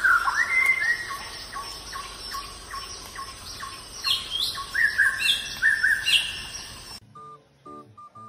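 Songbirds chirping and whistling, many short rising calls overlapping. About seven seconds in the birdsong cuts off and soft music with a repeating plucked melody begins.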